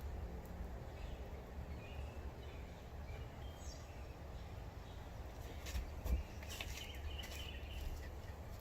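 Outdoor ambience: birds chirping now and then over a steady low wind rumble on the microphone, with a brief cluster of sharp crackles or snaps about six to seven seconds in.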